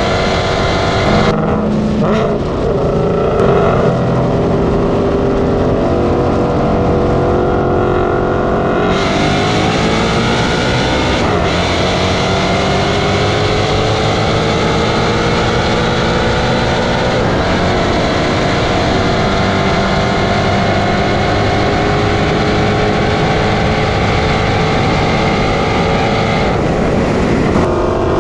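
Loud performance car engines running and revving. One climbs steeply in pitch about nine seconds in as it accelerates.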